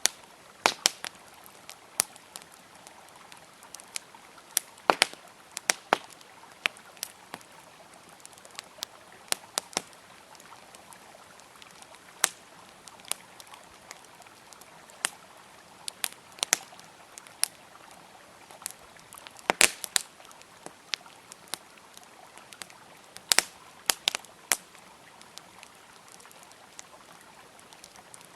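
Wood campfire crackling with irregular sharp pops, a few loud ones, over the steady rush of a flowing river.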